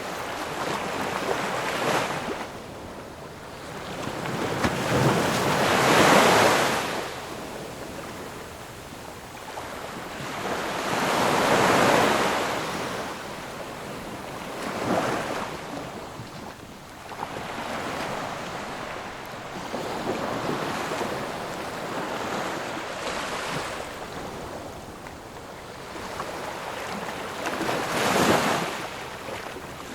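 Sea waves breaking on a shore, each one swelling to a rush of surf and then ebbing. The biggest break at about six, twelve and twenty-eight seconds, with smaller ones between.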